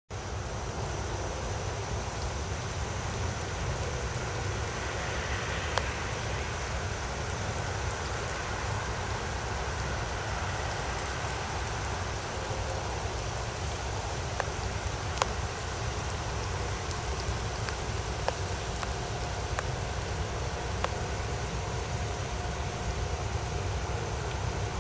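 Steady heavy rain with a few sharp drop taps, over the low rumble of CSX diesel locomotives running in the distance as the coal train approaches.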